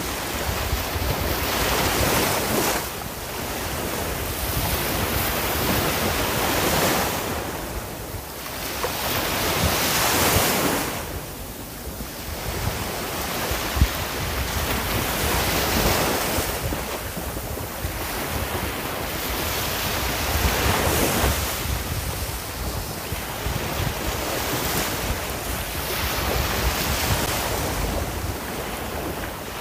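Ocean surf: waves breaking and washing in, the rush swelling and falling back in surges every few seconds.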